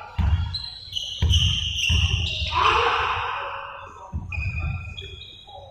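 Basketball bouncing on a hard gym floor: four heavy thuds at uneven intervals that ring on in the hall, with high squeaks in between.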